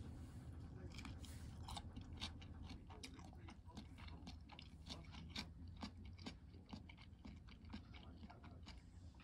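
A person chewing crunchy food with cucumber in it, a run of irregular crisp crunches a few times a second.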